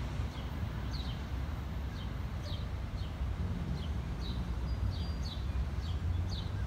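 A small bird chirping repeatedly, short down-slurred notes about twice a second, over a steady low rumble of road traffic.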